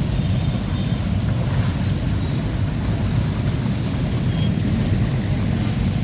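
Wind buffeting the microphone over a steady low rumble on a rain-flooded road.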